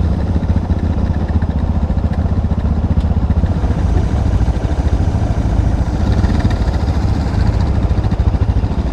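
Motorcycle engine running steadily at a low, even speed, a fast regular pulse with no revving.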